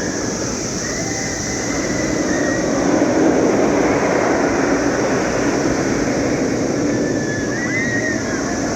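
A loud, steady chorus of periodical cicadas, a constant high hiss over a dense drone, with a few short whistle-like notes about a second in and again near the end.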